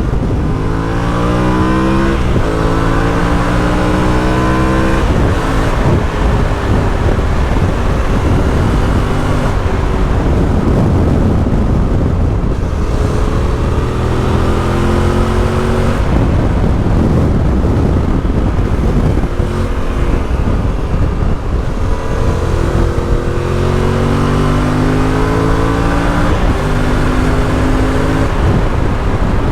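Yamaha Ténéré 700's parallel-twin engine through an Akrapovič exhaust, accelerating hard through the gears three times, the pitch rising and then dropping at each upshift, with steadier running in between.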